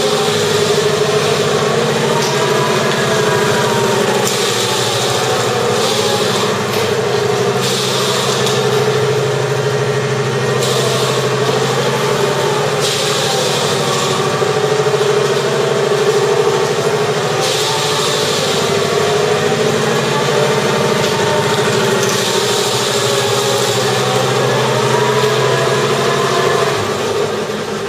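Electronic engine sound generator in a 1/6-scale Tiger tank model playing a tank engine running steadily through its speaker, its pitch wavering up and down, with a hiss that cuts in and out every few seconds.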